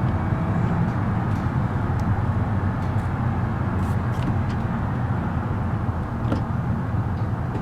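Minivan running with a steady low rumble of engine and road noise, with a few faint ticks scattered through it.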